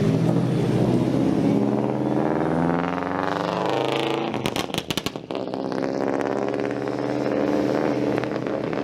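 Car engine revving, its pitch climbing, then a rapid string of sharp pops about halfway through before it settles back to a steady run.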